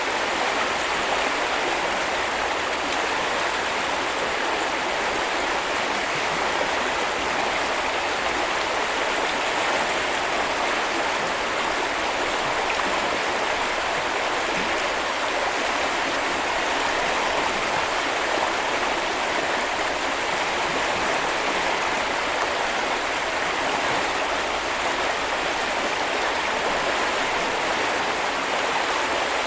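A river stream rushing and splashing steadily over rocks, a constant even rush of water.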